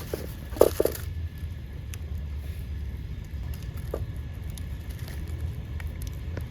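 Wood cooking fire with light, scattered crackles over a steady low rumble, and a few dull knocks: three in the first second and one about four seconds in.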